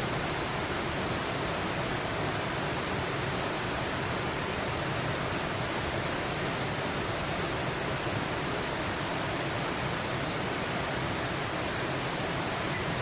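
A steady, even rushing hiss with no distinct sounds in it.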